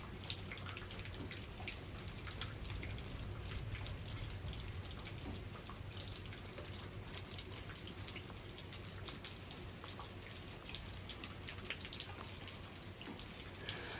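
Rain falling and dripping: a steady patter of many separate drops.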